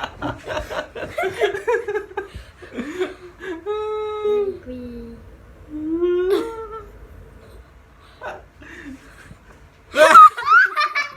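Laughter and short non-word vocal sounds, with a held hummed tone about four seconds in and a burst of loud laughter near the end.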